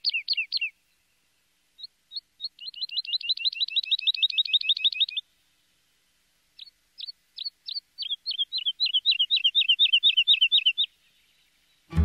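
A bird singing in rapid trills of short, high, down-slurred chirps, in three bursts: one ending just after the start, one from about 2 to 5 seconds in, and one from about 6.5 to 11 seconds in that starts with spaced notes and speeds up.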